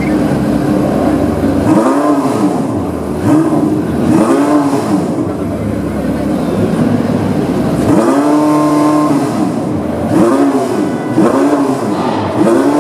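Porsche 918 Spyder's V8 being revved while standing still: short throttle blips whose pitch rises and falls, a longer held rev midway, then several quick blips in a row.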